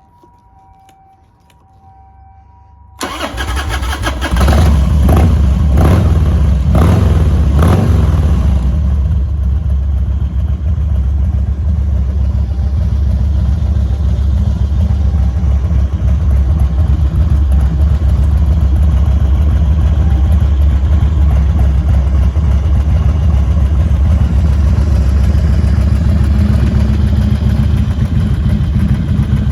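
Harley-Davidson FXDX's 1450 cc Twin Cam V-twin with a Kerker 2-into-1 exhaust, starting up about three seconds in, revved a few times, then idling steadily.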